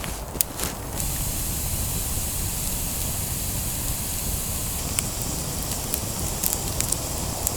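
Lattice-laid campfire burning: a couple of sharp pops, then from about a second in a steady hiss with scattered crackles, several of them in the last few seconds.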